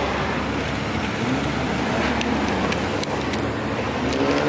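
Car engine and exhaust running steadily as a car drives out past, an ordinary exhaust note rather than a V8.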